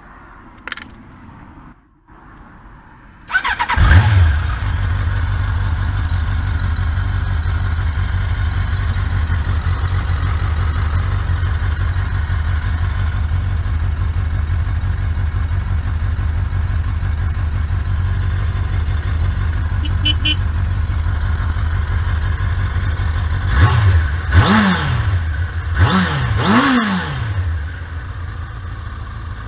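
A 1992 Suzuki GSX-R750's inline-four engine cranks on the electric starter about three seconds in, catches at once and settles into a steady idle. Near the end the throttle is blipped four times in quick succession, each rev rising and falling back to idle.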